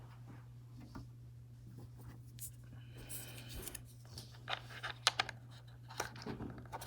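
Light plastic handling sounds, scrapes followed by several sharp clicks in the second half, as the small cleaning brush tool is fitted back into its compartment on a Wyze robot vacuum. A steady low hum runs underneath.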